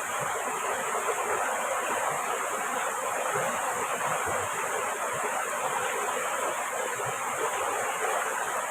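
Heavy rain falling steadily, a continuous even rush of water noise.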